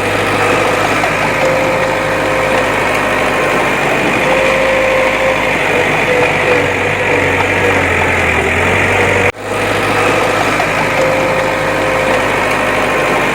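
Bulldozer's diesel engine running steadily under load, with a brief cut-out about nine seconds in before the same engine sound carries on.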